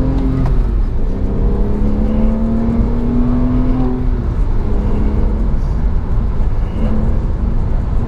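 Porsche 911 (997) Carrera's naturally aspirated flat-six accelerating hard under full throttle out of a corner. The engine note climbs in pitch, drops about half a second in and again about four seconds in as the gears change, then runs on at lower pitch.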